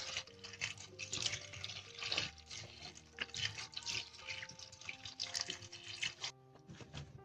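Water running from a tap and splashing irregularly, as when something is rinsed under it; it stops about six seconds in. Soft background music plays underneath.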